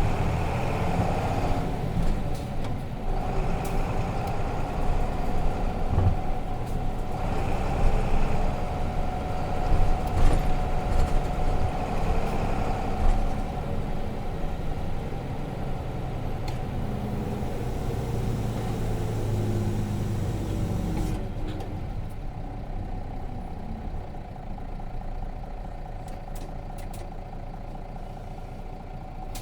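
Nissan Diesel RM bus's FE6 inline-six diesel heard from inside the bus while driving, the engine note rising and falling with throttle. The sound settles and grows quieter over the last third as the bus eases off.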